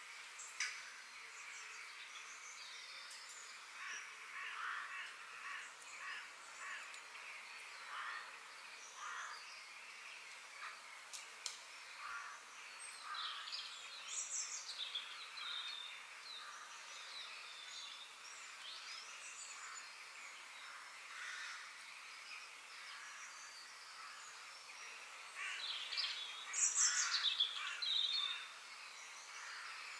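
Forest birds calling and singing: a mix of short chirps, trills and harsher calls, with a louder burst of song near the end.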